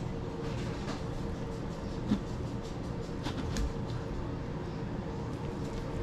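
A steady low mechanical hum with a faint constant tone running through it, and a few soft clicks and taps.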